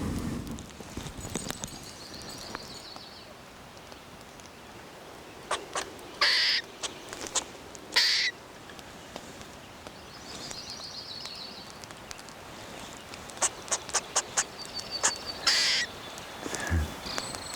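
Wild birds calling outdoors: a high, rapid chittering trill twice, several short, loud, harsh calls, and a run of sharp clicks near the end.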